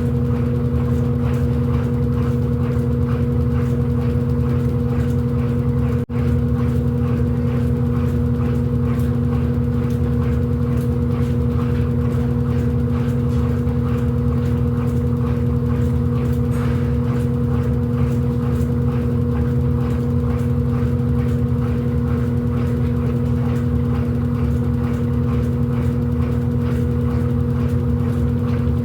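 Electrolux LED14 washing machine running with a steady, unchanging motor hum and whine, broken only by a momentary drop-out about six seconds in.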